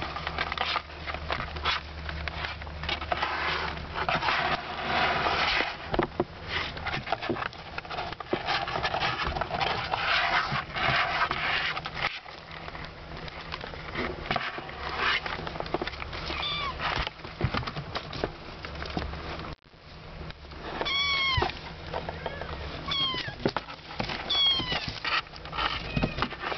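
Month-old kittens mewing: a run of short, high meows in the last few seconds. Before that, a long stretch of rustling, scratching and clattering as the kittens scramble about.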